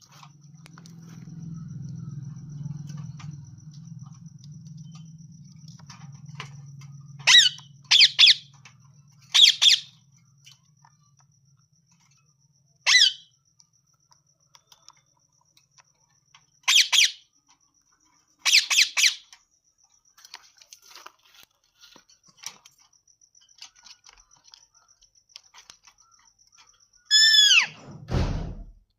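A parrot giving short, sharp squawks, singly and in quick pairs, with long pauses between them, and one longer call falling in pitch near the end. A low hum fades out over the first dozen seconds.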